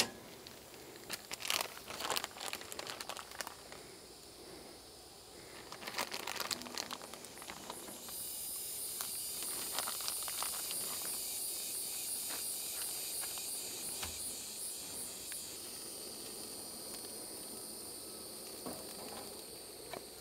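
Crinkling and handling noises for the first several seconds. About eight seconds in, a steady sizzle starts suddenly as a tortilla quesadilla goes into a hot skillet, then fades slowly.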